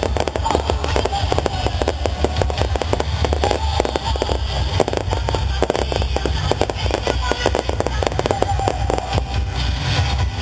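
Aerial fireworks bursting: a dense run of rapid crackling, thickest through the middle, over a steady low rumble, with music playing along.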